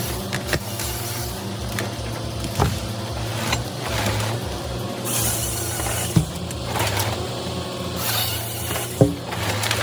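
A forestry harvester's diesel engine running steadily, with a few sharp knocks and two short bursts of hiss.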